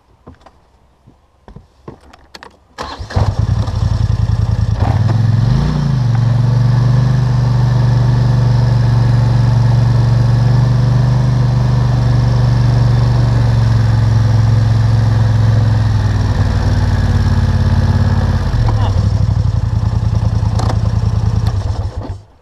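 ATV engine starting about three seconds in after a few clicks, revving briefly once, then idling steadily before it is switched off near the end.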